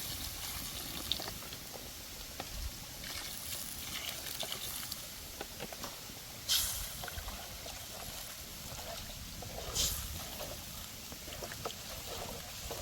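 Steady trickling and sloshing of flowing river water, with a couple of brief sharp clatters about six and a half and ten seconds in.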